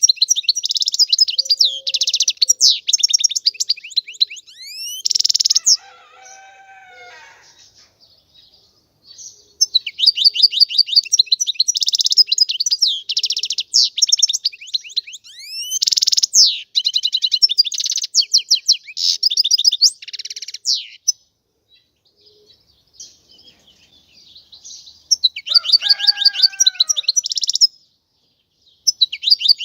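European goldfinch singing: long runs of rapid, high twittering trills and gliding notes, broken by pauses of a few seconds.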